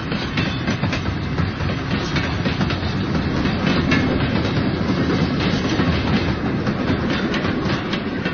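Model train rolling along the track: a steady rumble with a dense run of clicks from the wheels over the rails.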